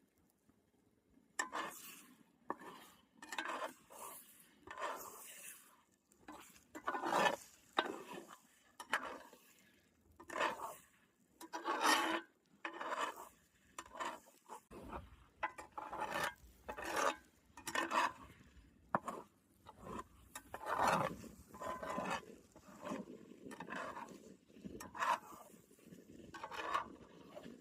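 Spatula scraping and stirring scrambled eggs in a frying pan with bacon fat and bacon pieces: uneven scraping strokes, about one or two a second.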